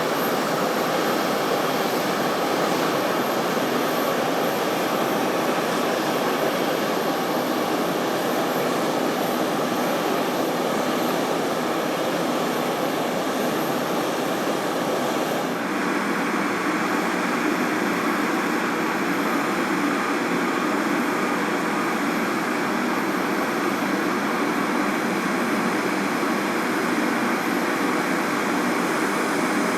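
Jet aircraft engines running steadily, a continuous roar-like noise that changes character abruptly about halfway through.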